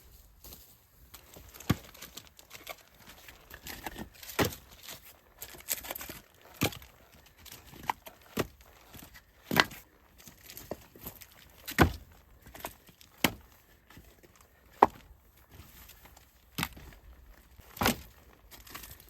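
Firewood being chopped by hand: a sharp wooden knock every one to two seconds, about ten in all.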